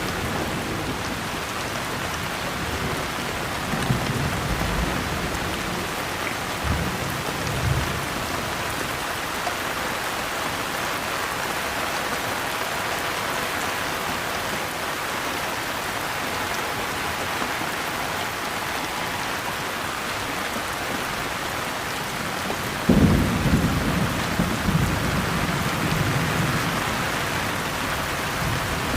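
Steady rain falling, an even hiss, with thunder: a low rumble about four seconds in, and a sudden louder clap about three-quarters of the way through that rolls off over several seconds.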